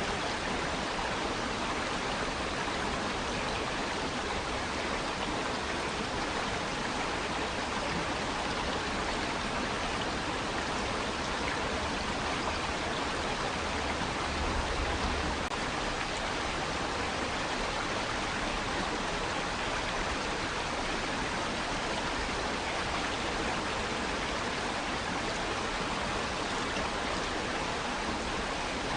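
Water rushing and washing against rocks, a steady even hiss of flowing water with no let-up, with a brief low rumble about halfway through.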